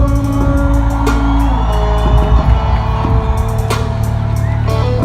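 Live band music without vocals: drum hits over held instrument notes, with guitar coming in.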